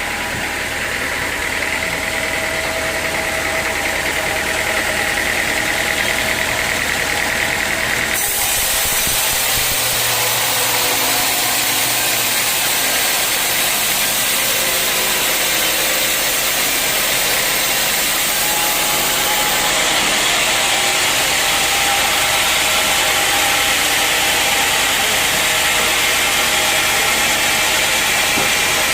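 Sawmill machinery running with a loud, steady mechanical drone. About eight seconds in, the sound changes abruptly.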